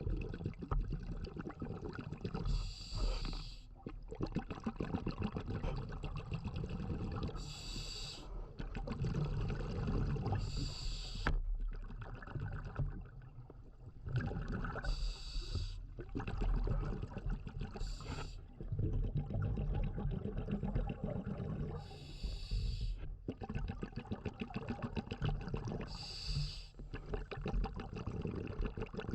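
Scuba diver breathing through a regulator underwater: a short hiss every few seconds, with bubbling and a steady low rumble of water between breaths.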